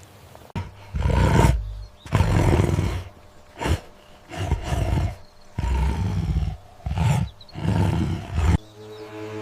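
A large animal giving about seven loud, deep calls in quick succession, each lasting up to about a second, with short pauses between them.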